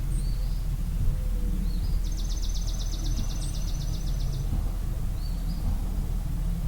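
Dawn birdsong over a steady low outdoor rumble. A songbird gives a fast, even trill of about eight notes a second for over two seconds, and a short rising chirp repeats every couple of seconds.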